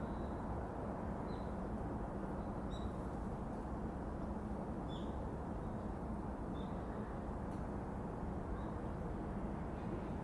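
Outdoor park ambience: a steady low rumble, with a bird giving several short, high chirps a second or two apart.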